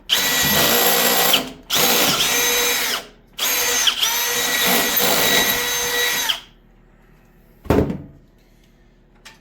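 Milwaukee electric drill running in three bursts, its motor whine sagging and picking up again at each start and stop. About a second and a half after the last burst ends comes a single knock.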